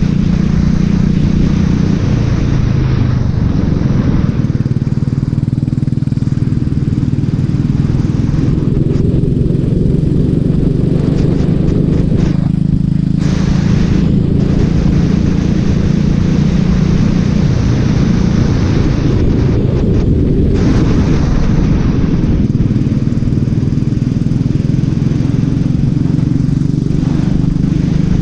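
Racing kart engine running hard and continuously, its pitch rising and falling as the driver goes on and off the throttle, with a short drop in revs about halfway through.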